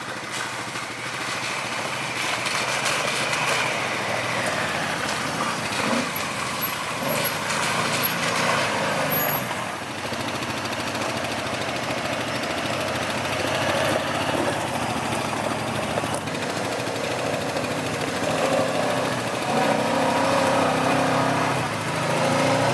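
Yamaha Grizzly 700 ATV's single-cylinder engine running as it is ridden along a gravel trail, its pitch rising and falling with the throttle.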